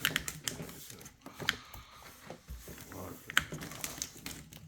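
Irregular clicks, taps and light rustling of a large plastic RC truck being handled and held up, with a sharper knock a little past halfway.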